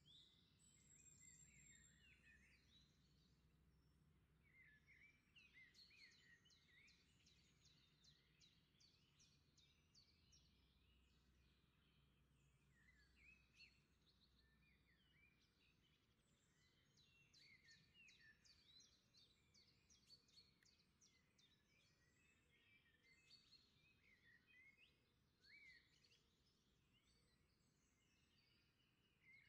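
Very faint birdsong: clusters of quick repeated chirps and short whistled calls from several small birds, over near silence.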